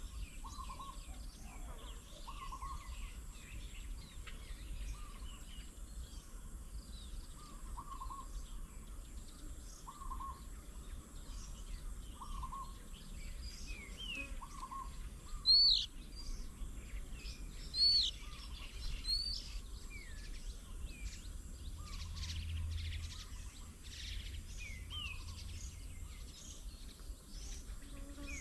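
Several birds calling and chirping together. One call repeats at an even pace about every second and a half to two seconds, and a few louder, sharper calls stand out near the middle, over a steady low background rumble.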